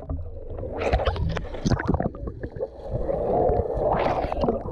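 Pool water splashing and sloshing, with irregular knocks and clicks.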